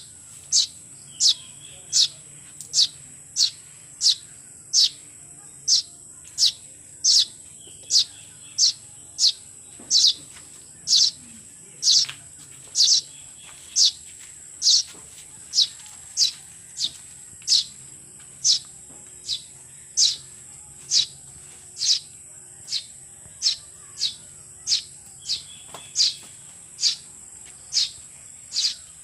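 A bird repeating a short, high chirp that falls in pitch, evenly, a little more than once a second, over a steady high-pitched hiss.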